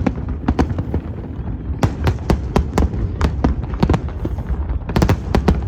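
Fireworks display: a rapid, irregular string of sharp bangs and pops over a continuous low rumble, with a dense cluster of bangs about five seconds in.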